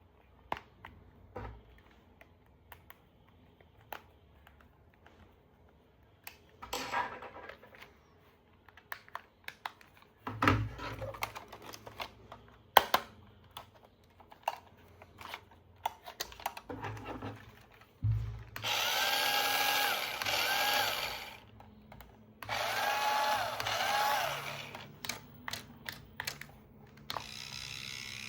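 Plastic toy parts clicking and knocking as they are handled, then a small electric toy motor whirring in two bursts of about two seconds each, its pitch wavering. A quieter, steady motor hum follows near the end.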